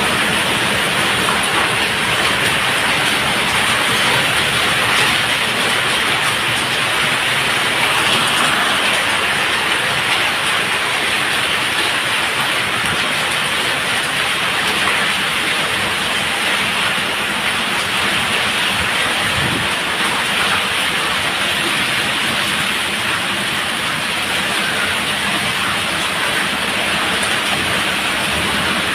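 Heavy rain falling, a dense, even hiss that holds steady without let-up.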